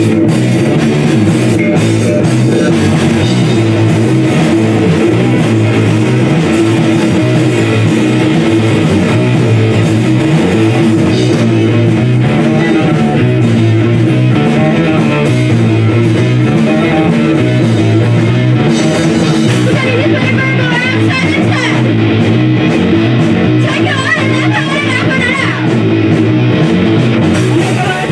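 A rock band playing live, with electric guitar, bass and drums.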